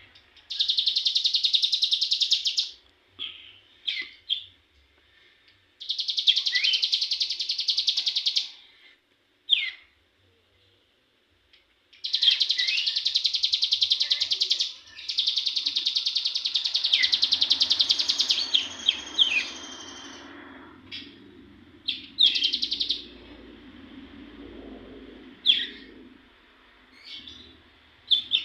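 Young ciblek gunung (cigun) songbird practising ngebren: four long, rapid, machine-gun-like trills of two to three seconds each, with short chirps between them. A faint low rumble sits under the second half.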